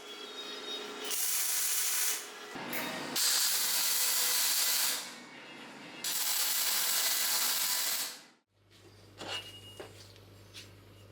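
Repeated abrasive rubbing strokes, like sanding or filing a workpiece, each lasting one to two seconds. They stop abruptly a little past two-thirds of the way in, leaving a low hum with a few light clicks.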